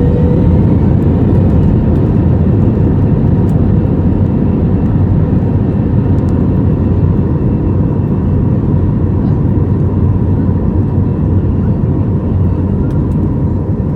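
Frontier Airlines Airbus A320-family jet heard from inside the cabin during takeoff: a loud, steady rush of engine and airflow noise with a constant hum near 1 kHz.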